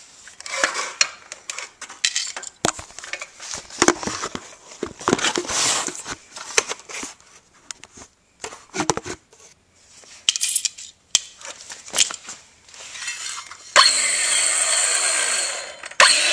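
Small metal parts of a dismantled hard drive clinking, tapping and scraping as they are handled. Near the end a louder, steadier metallic scraping noise with some ringing starts.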